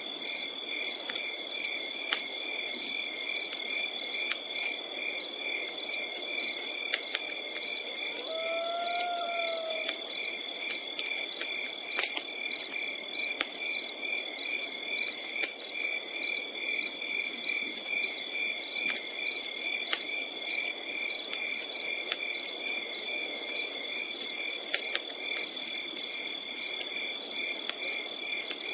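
Night insects, crickets among them, chirping in a steady, unbroken chorus with rapid pulsing trills, while a campfire crackles with scattered sharp pops over a low hiss. About nine seconds in, one short call rises and falls in pitch.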